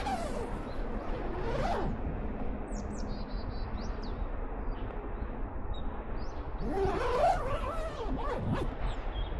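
Birds chirping in short, high calls over a steady rushing background noise, with louder bending calls near the start and again in the last third.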